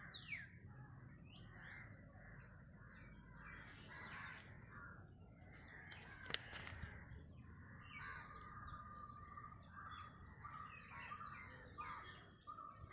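Faint outdoor background with scattered bird calls, and a single sharp click about six seconds in.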